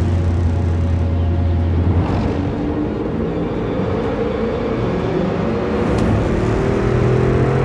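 Bugatti Chiron Pur Sport's quad-turbocharged W16 engine running, its note climbing near the end as the car accelerates. A low steady drone cuts off about two seconds in.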